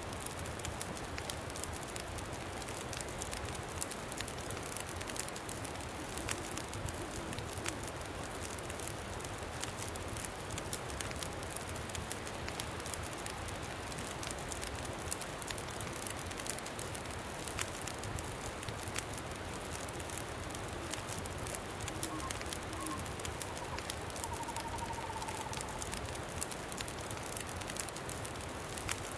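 Campfire crackling with frequent small pops over a steady rush of wind. About three quarters of the way in there is a faint, brief warbling call.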